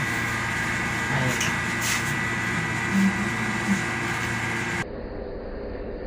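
Steady mechanical room hum with a few brief murmurs of voices. About five seconds in, the sound cuts abruptly to a quieter, duller hum.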